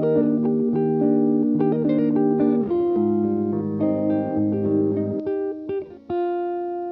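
Music: plucked guitar playing a run of notes and chords, with a short break about six seconds in and then one chord left ringing.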